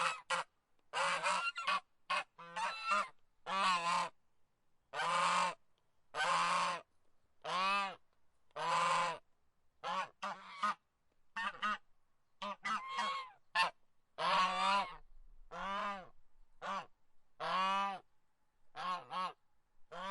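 Goose honking over and over: about twenty loud calls at uneven intervals, some short and clipped, others drawn out for more than half a second.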